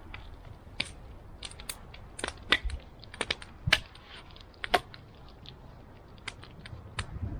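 Wood campfire crackling: irregular sharp pops and snaps, a few louder ones in the middle, over a low rumble.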